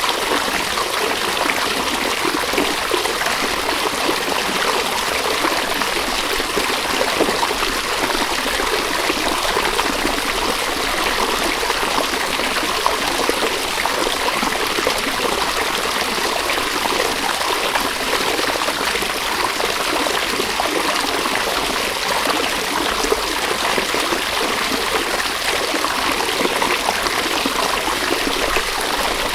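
River water flowing and trickling over stones, a steady unbroken rush.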